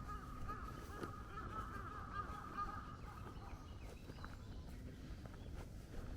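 A chorus of many overlapping animal calls, wavering in pitch, fading out about three and a half seconds in.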